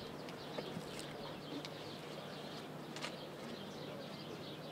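Faint outdoor ambience with small birds chirping: many short, high chirps over a steady low hiss, with a few soft clicks.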